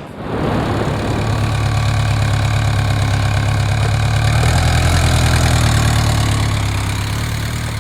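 Motorcycle engine running at a steady speed, close and loud. It comes in abruptly just after the start and eases off slightly near the end.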